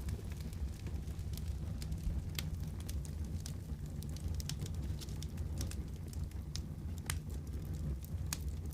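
Fireplace wood fire crackling: irregular sharp pops and snaps over a steady low rumble of the flames.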